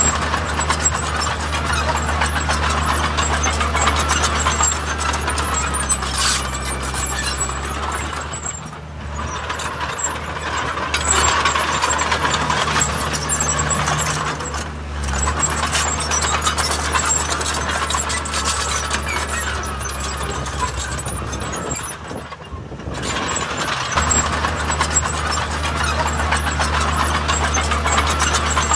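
Diesel engine of heavy earthmoving machinery running steadily under work, with a low drone and a broad mechanical rumble that dips briefly about a third of the way in and again about three-quarters through.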